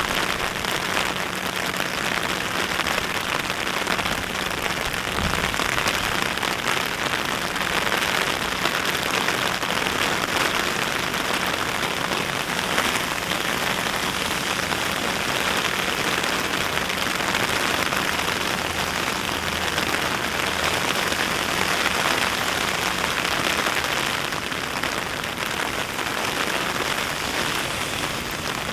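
Steady, fairly heavy rain falling and pattering on surfaces.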